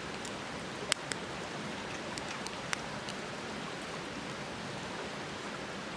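Wood fire crackling in a small fire pit: a steady hiss with a few sharp pops, the loudest about a second in.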